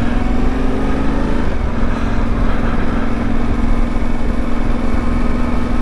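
Adventure motorcycle engine running at a steady cruising speed, its pitch rising slightly and then dipping a little about a second and a half in, over a low rumble of road and wind noise.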